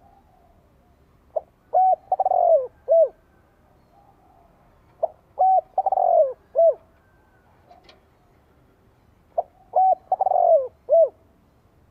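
Spotted dove cooing: three song phrases about four seconds apart, each a couple of short coos, a longer coo that falls in pitch, then a short closing coo.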